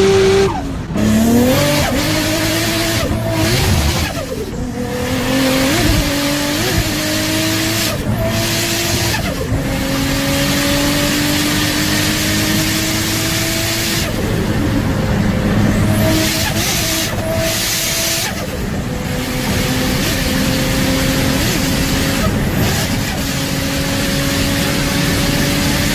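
Turbocharged Toyota Supra engine and exhaust accelerating hard through the gears. The engine note climbs steadily and drops at each of about five upshifts, with a loud rushing noise over it.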